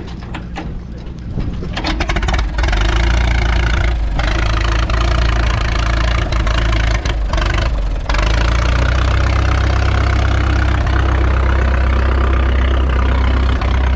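Cockshutt 18-28 tractor engine running just after a start, still on choke. Separate firing beats can be heard at first; about two seconds in it picks up and runs louder and steadily.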